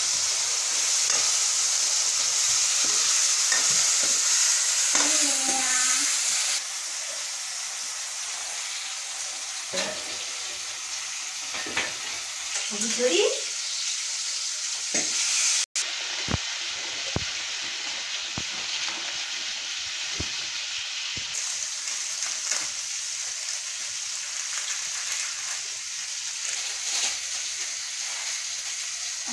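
Oil and spice masala frying in a karahi, a steady sizzling hiss that is louder for the first six seconds or so, then settles lower.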